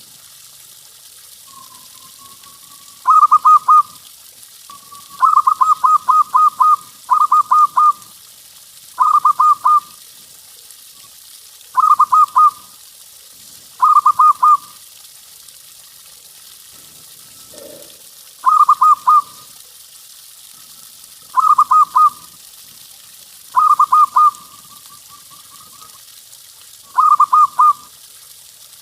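Zebra dove (perkutut) cooing: short phrases of three to six quick, clipped coos, repeated about every two seconds, with a soft drawn-out trill between some phrases.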